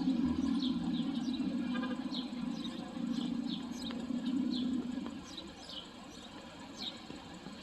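Small birds chirping over and over in short, quick downward chirps, about two a second, over a low steady hum that drops away about five seconds in.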